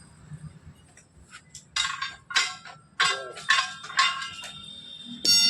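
Hammer striking a steel truck wheel rim and lock ring: a run of about six clinking metal strikes, each with a short ringing tone, spread over under three seconds. A sharper strike follows near the end.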